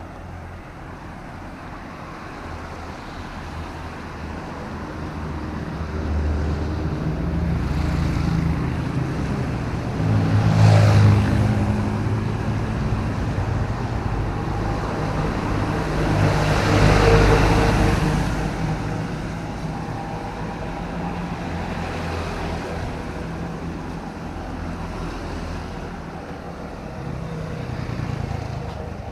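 City road traffic in drizzling rain: vehicle engines running steadily, with two vehicles passing close, about eleven and seventeen seconds in, their noise swelling and fading.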